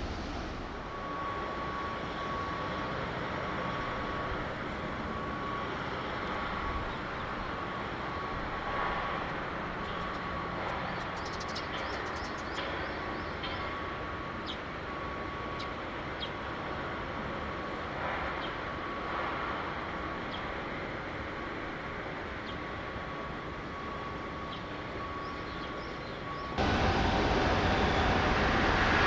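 Shipyard background noise with a high electronic beep repeating on and off, and a few scattered light clicks and knocks. Near the end the sound changes suddenly to a louder, fuller rush of noise.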